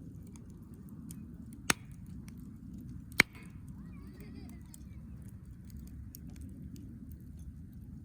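Wood campfire crackling with faint scattered ticks and two sharp pops about a second and a half apart, over a steady low rumble.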